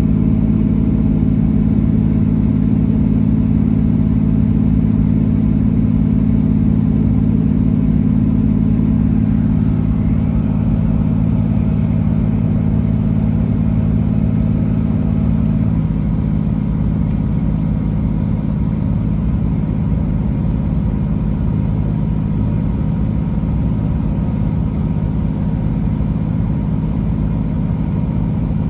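Class 165 diesel multiple unit running, its underfloor diesel engine droning steadily. About halfway through the engine note drops away suddenly, and the train runs on with a lower, rougher rumble.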